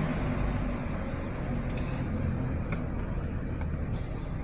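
Automatic car wash equipment running, heard from inside the car: a steady low hum, with a few brief hisses of spray.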